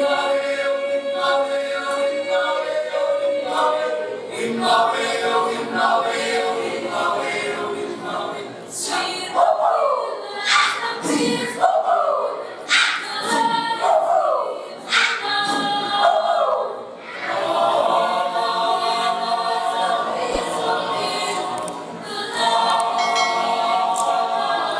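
Choir singing in multi-part harmony, with held chords at first. In the middle comes a run of voices swooping down in pitch again and again, before sustained chords return near the end.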